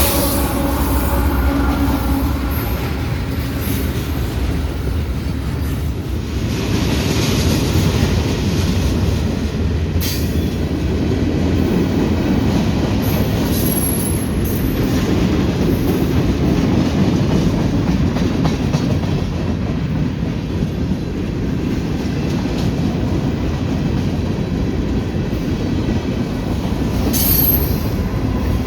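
CSX freight train M361 rolling steadily past with a loud rumble of wheels on rail, with brief high-pitched wheel squeals about halfway through and again near the end.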